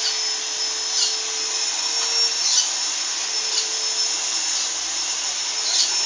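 A dog giving short, high-pitched yelps that fall in pitch, one every second or two, over a steady hiss with a thin high whine.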